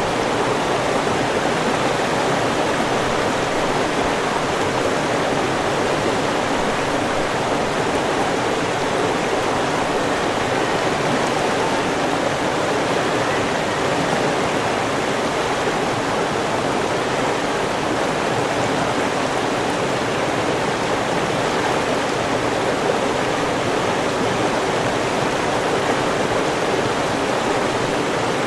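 A river's flowing water rushing steadily, an even continuous sound with no changes.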